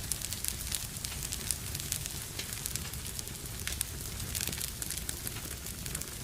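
Fire in a fireplace crackling, with frequent irregular sharp snaps over a low, steady rumble of flame.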